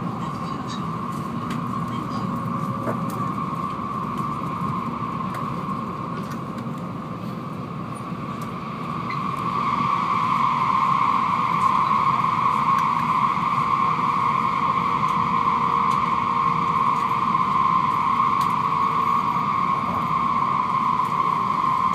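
N700 series Shinkansen train running, heard from inside the passenger car: a steady rushing rumble with a prominent high hum on top. The noise grows louder about nine seconds in.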